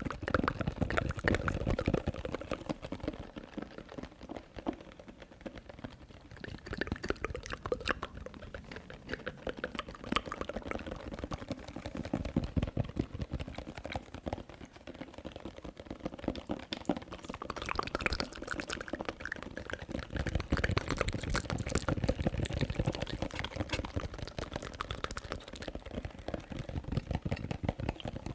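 Close-miked ASMR tapping and wet mouth sounds: a dense, continuous stream of rapid clicks and smacks.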